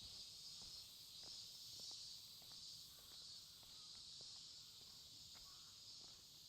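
Faint, steady chorus of insects: a high drone that pulses at the top. Soft footstep clicks come about every half second.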